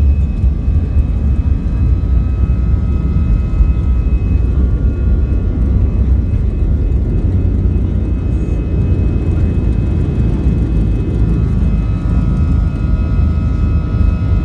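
Airliner's jet engines at takeoff power: a loud, steady rumble with a thin whine of steady high tones over it.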